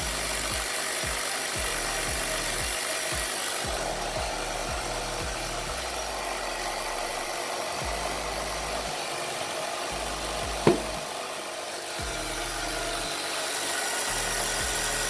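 Air compressor running steadily while inflating a freshly mounted motorcycle tire, with a single sharp pop about ten seconds in as the tire bead seats onto the rim.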